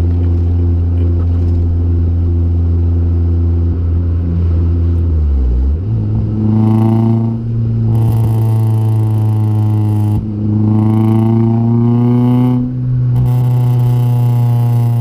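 Acura Integra GSR's 1.8-litre VTEC four-cylinder running through a Vibrant aftermarket exhaust, holding steady revs, then dipping about five seconds in. Its pitch then climbs slowly, with brief breaks about ten and thirteen seconds in.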